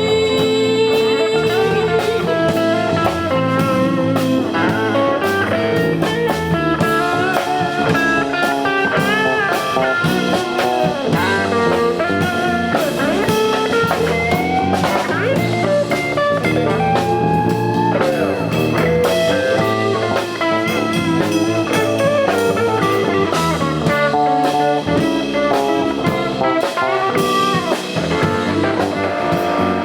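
Band music without singing: a guitar melody with bending notes over bass and a drum kit.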